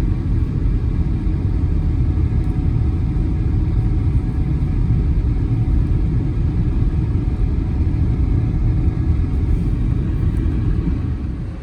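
Car driving through snow: a loud, steady low rumble of engine and road noise, dropping off sharply just before the end.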